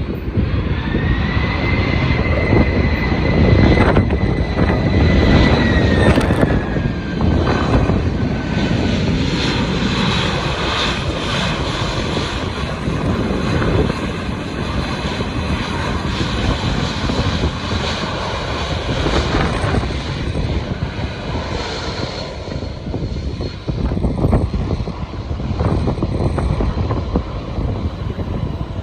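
Jet airliner passing close on its landing approach: a loud rumble of the engines with a high whine that holds steady, then drops in pitch a few seconds in as the aircraft goes by, and the rumble slowly fades.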